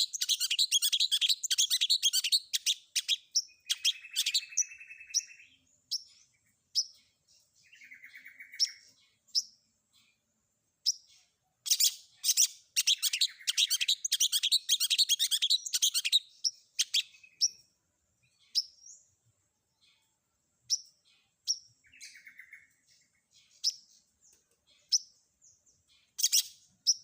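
Long-tailed shrike (cendet) singing a varied song of mimicked phrases: bursts of fast, high chattering, short buzzy trills, and separate sharp single notes between them.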